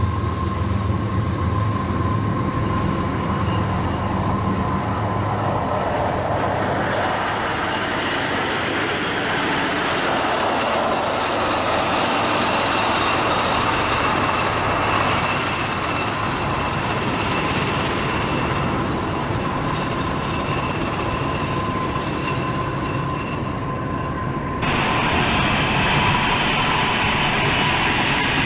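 Union Pacific freight train rolling past: a steady rumble of wheels on rail with a faint, steady thin whine. The sound changes about three-quarters of the way through.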